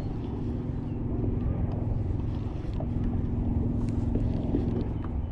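A steady motor hum over low wind rumble on the microphone, fading near the end.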